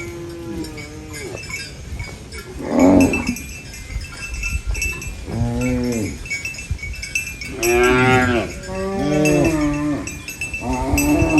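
Cows mooing: a series of about five or six drawn-out moos, one after another, the loudest about eight seconds in.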